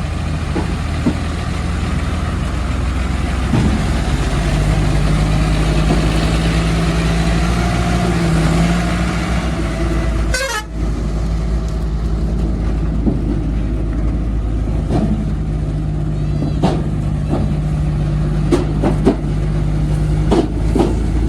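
Heavy diesel engine running steadily, with sharp knocks and clanks in the second half.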